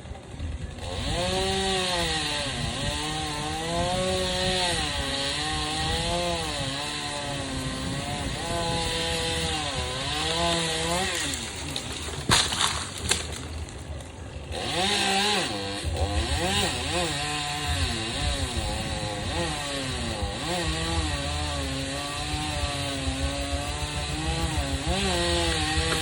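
Two-stroke chainsaw running and cutting wood, its engine pitch repeatedly rising and falling as it revs and loads in the cut. Near the middle it drops off for about two seconds with a few sharp knocks, then revs back up and keeps cutting.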